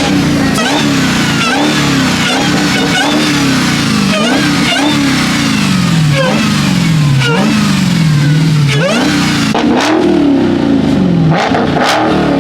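Supercharged car engine revved hard again and again, about once a second: each rev climbs quickly and falls back slowly before the next.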